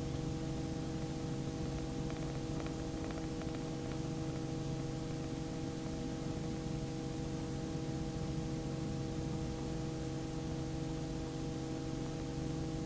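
Steady hum with several fixed tones over a low hiss, heard through the Robinson R44 helicopter's intercom audio feed while the helicopter is running in a hover taxi.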